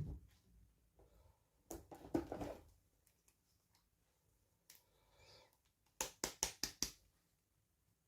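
Hands handling small plastic toy pieces and packaging: a knock at the start, some rustling, then a quick run of about six sharp clicks near the end.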